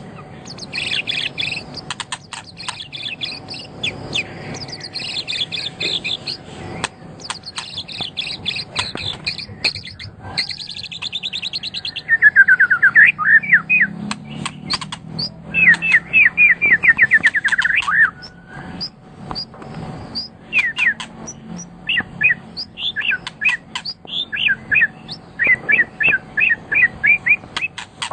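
A songbird singing a long, varied song of rapid chirps and trills. In the middle it gives loud, fast runs of repeated falling notes, then goes back to quicker high chirps. A faint steady hum runs underneath.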